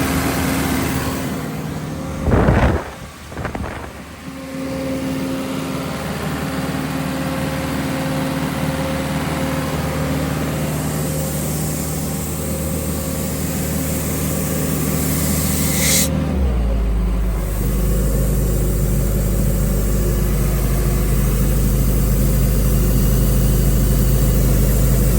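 John Deere 4045 four-cylinder diesel engine of a portable air compressor running steadily. About two and a half seconds in there is a brief loud burst, and around sixteen seconds in the running note changes and turns deeper and a little louder.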